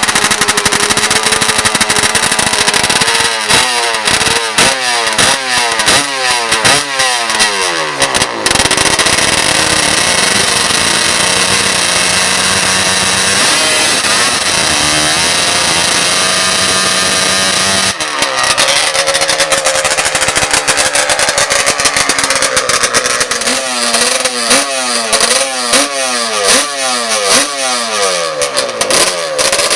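Racing ATV engines revving hard in quick repeated rising sweeps, then holding a steadier high note for several seconds, then revving up in quick rising sweeps again near the end.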